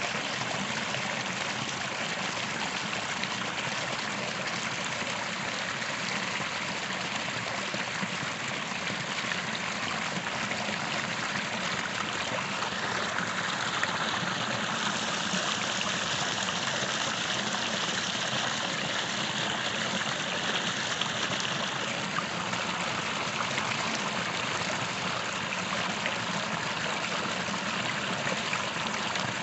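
A small creek running over stones: steady babbling and trickling water, a little brighter and fuller for several seconds in the middle.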